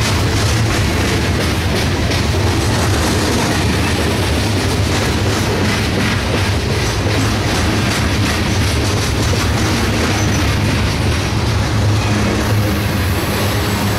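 Empty covered hopper cars of a CSX freight train rolling past close by: a steady rumble of steel wheels on rail, with continual clicking as the wheels cross rail joints.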